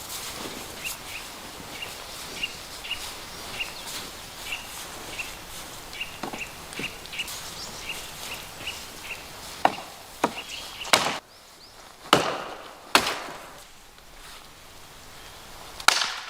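Wood being chopped: about six sharp, hard strikes in the second half, coming roughly a second apart at first, then a lone strike near the end. Before them comes a run of light, quick ticks.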